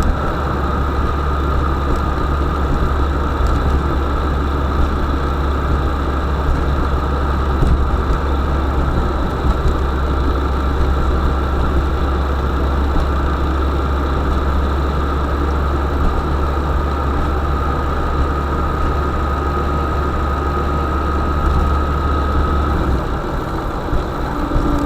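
UAZ Bukhanka (UAZ-452) van's engine running steadily: a loud low drone with a steady whine over it. The whine fades out and the drone eases about twenty-two seconds in.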